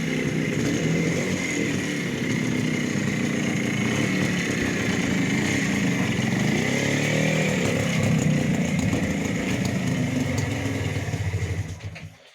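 Minsk motorcycle's two-stroke single-cylinder engine running, its pitch rising and falling with the throttle. The sound drops away sharply near the end.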